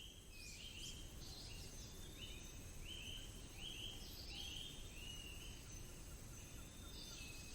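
Faint forest ambience: a steady low background with a high call repeating in short, slightly rising chirps, roughly two a second, that pause for a while near the end.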